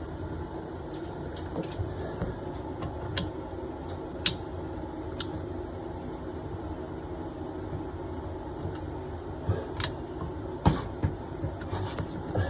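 Pliers gripping and working a tight brass compression ring on a toilet supply pipe: scattered sharp metal clicks and scrapes, more of them in the last few seconds, over a steady low hum.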